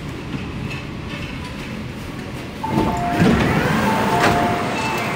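MTR K-Train rumbling steadily as it comes to a stop. About two and a half seconds in, its sliding passenger doors open with a sudden rise in noise, and short two-tone electronic beeps repeat several times.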